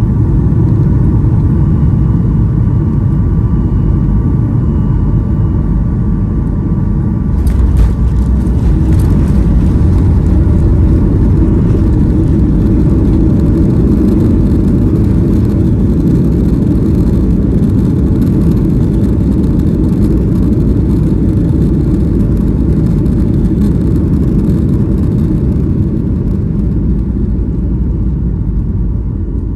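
Boeing 737-800 cabin noise on the landing roll: a steady heavy rumble that jumps suddenly about seven seconds in, with rattling and a loud rush of engine noise, typical of touchdown followed by the CFM56 engines spooling up in reverse thrust. The noise eases off near the end as the jet slows.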